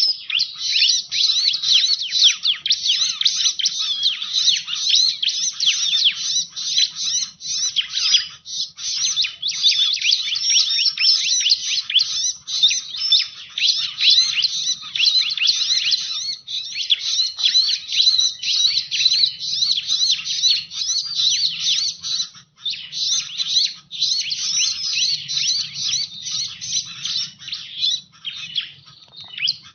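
Bar-winged prinia (ciblek) calling in a fast, unbroken stream of high chirps, the kind of call played as a lure to draw the bird in. The chirping breaks off briefly about three quarters of the way through and again near the end.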